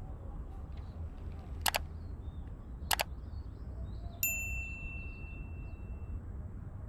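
Two sharp clicks, then a single metallic ding that rings out clearly and fades over about two seconds, over a steady low rumble.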